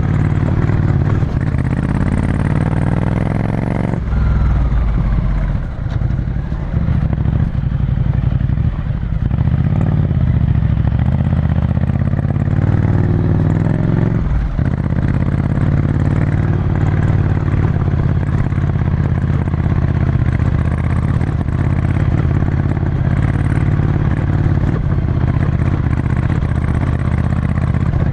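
Ducati Scrambler Desert Sled's air-cooled 803 cc L-twin, on a full Termignoni exhaust, running under way as heard from on board. The revs climb over the first few seconds, the note changes at about four seconds, and there are brief dips at about six and fourteen seconds.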